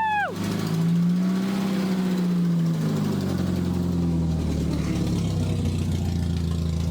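1990 Mazda Miata's 1.6-litre four-cylinder engine running loud. It rises slightly in pitch about a second in, then settles back to a lower steady run.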